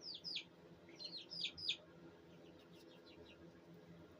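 Young bantam chickens peeping: short high chirps that each fall in pitch, a pair at the start, a quick run of four about a second in, then a few fainter ones.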